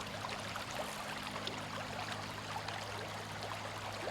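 Creek water running and trickling over rocks, a steady rushing with small ticks and splashes, over a faint low steady hum.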